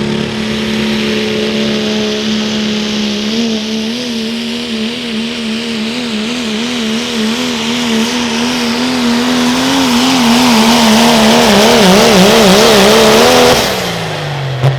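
Turbocharged diesel pickup truck engine held at high revs while pulling the sled, its pitch wavering rapidly about four times a second and growing louder. Near the end the throttle is cut and the revs fall away.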